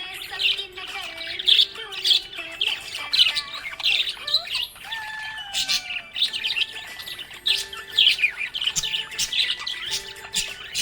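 Budgerigar chirping and warbling: a fast, unbroken stream of short high chirps, with a few longer sliding notes mixed in.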